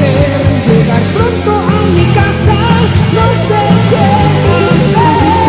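Rock song with electric guitars and bass, a melodic lead line gliding over them.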